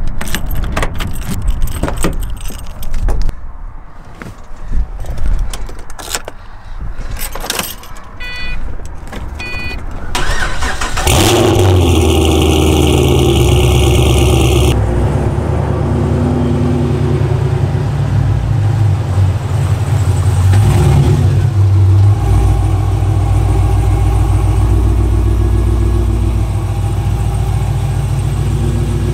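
Keys jangling and clicks and knocks, two short beeps, then a car engine starts about eleven seconds in and settles into a steady idle, with a steady high tone for the first few seconds of running.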